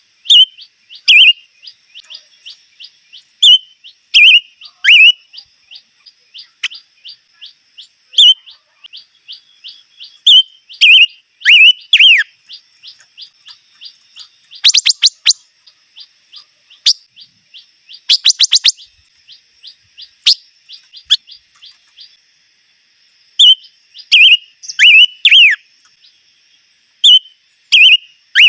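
Songbird known in Vietnamese as chim ngũ sắc ('five-coloured bird') singing: a steady run of short high ticking notes, several a second, under louder downslurred whistles every second or two, with two brief rapid trills about halfway through.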